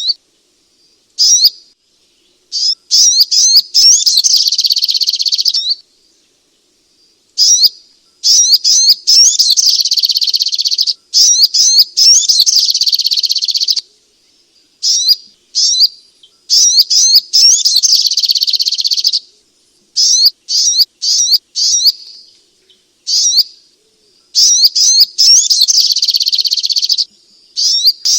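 Little spiderhunter (sogok ontong) calling: loud, high-pitched bursts of rapidly repeated sharp notes, each burst lasting a few seconds, broken by short pauses and single separate chips.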